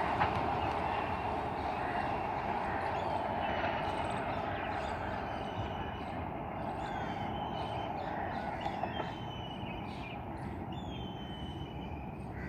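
Rumble of a departing passenger express train fading steadily as it draws away. Over it, birds give short, repeated falling calls, starting about two seconds in.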